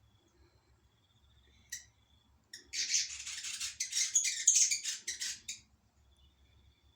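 Fantail chattering: a rapid burst of high, squeaky chirps lasting about three seconds, preceded by a single sharp click.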